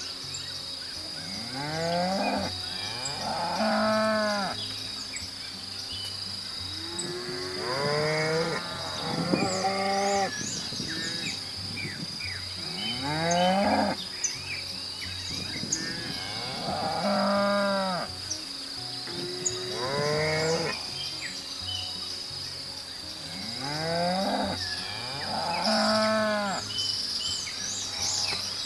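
Cattle mooing again and again, a long pitched call every few seconds, some calls overlapping as more than one animal calls.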